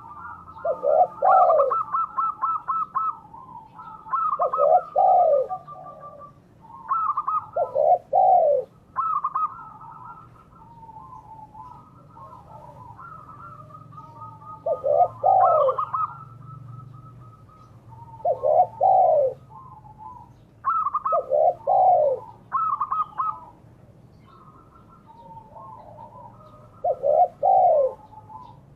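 Spotted doves and zebra doves cooing: deep arched coos repeat every few seconds, with runs of higher, quick stuttering notes between and over them.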